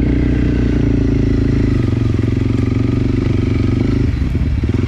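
Enduro dirt bike engine running steadily at raised revs. About four seconds in, the revs drop to a lower, pulsing idle.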